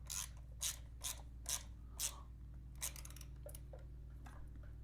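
Scattered light metallic clicks and taps of hand tools and small parts being handled at the battery terminals, about a dozen spaced unevenly, over a faint steady low hum.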